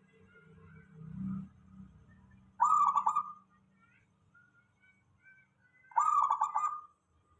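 Zebra dove (perkutut) cooing: two short phrases of quick repeated notes, about three seconds apart. Faint chirps of other birds can be heard between them.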